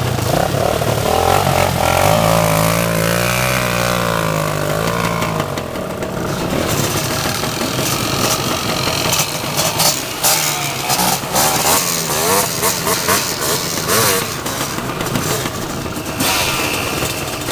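Motocross dirt bike engine revving, its pitch rising and falling, with a noisier stretch of repeated knocks and rattles from about six seconds in.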